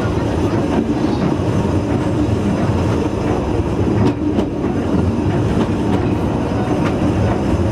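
Corris Railway narrow-gauge train running along the track, heard from the rear coach: a steady rumble of wheels on rail with a few faint clicks over the rail joints.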